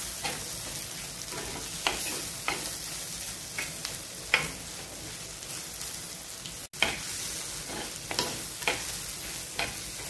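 Onions, tomatoes and green chillies sizzling in ghee in a black chatti, stirred with a steel spatula that scrapes the pan in irregular strokes over a steady frying hiss. The tomatoes are softening and their water is cooking off. The sound cuts out for an instant about two-thirds of the way through.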